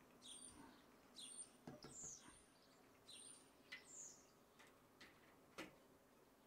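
Faint bird chirps, a short high call repeated several times, some notes falling in pitch, with a few light clicks or taps in between.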